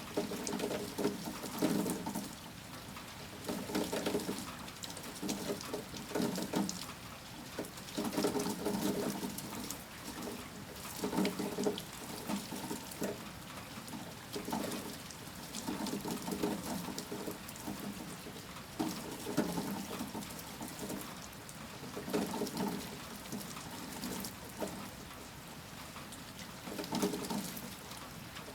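Storm rain falling steadily, with running water coming in uneven surges every two to three seconds.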